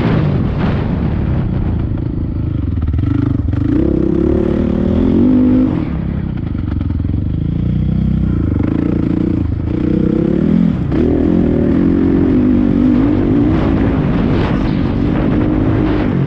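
Dirt bike engine revving while being ridden around a motocross track, its pitch rising and falling again and again with the throttle.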